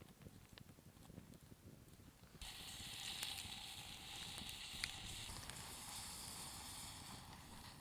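Faint crackling, then about two and a half seconds in a sudden steady sizzle starts, like food going into a hot pan over a campfire, with a few small pops through it.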